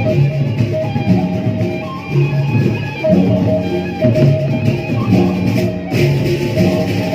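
Gendang beleq ensemble music from Lombok: a bamboo suling flute melody over the big drums and tuned percussion, playing a repeating pattern of notes in a steady rhythm.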